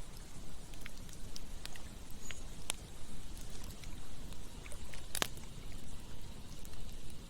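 Campfire burning: scattered sharp crackles and pops, the loudest about five seconds in, over a steady low rushing.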